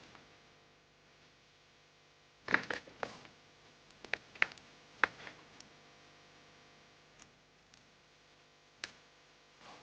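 Light clicks and taps of small objects being handled: a cluster about two and a half seconds in, another from about four to five and a half seconds, then two single clicks near the end.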